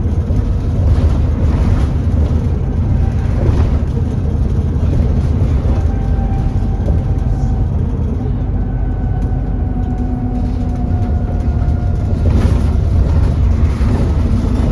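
Alexander Dennis Enviro400 E40D double-decker bus heard from on board while moving: a loud, steady engine and road rumble, with a faint steady whine that comes and goes.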